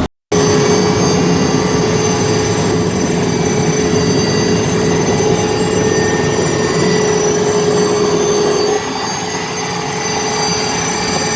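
Helicopter in flight, heard from on board: steady rotor and turbine noise with a held whine and several thin high tones. About nine seconds in the whine stops and the noise drops a little.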